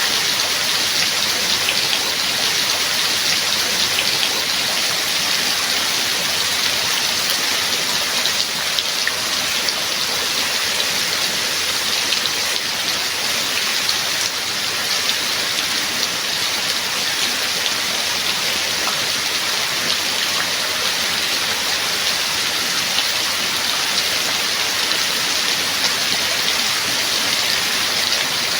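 Rain falling steadily: a dense, even hiss with scattered sharp ticks of individual drops.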